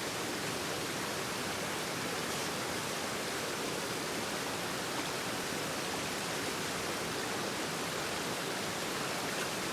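Steady rush of a river's flowing water, an even unbroken wash of noise.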